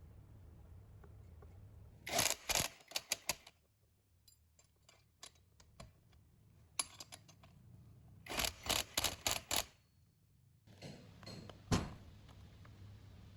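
Quick runs of sharp clicks and taps, coming in four separate bursts, from small metal parts and tools being handled on the engine, over a low steady hum.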